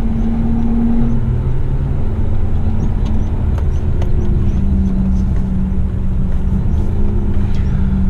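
Heavy rigid truck's engine running steadily while driving, a low drone whose note shifts about a second in.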